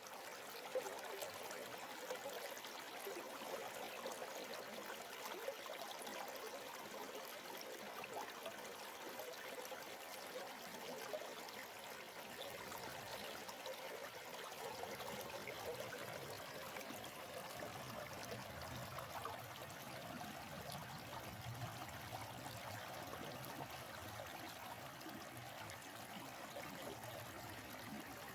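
Stream water flowing and trickling over rocks, a steady rushing with small splashes.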